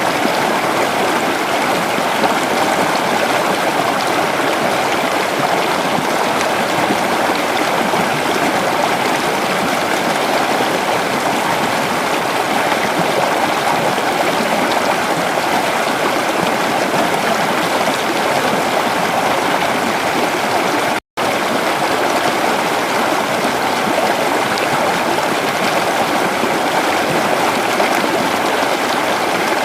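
Creek water flowing and babbling over rocks in a steady rushing wash. It cuts out completely for a split second about 21 seconds in.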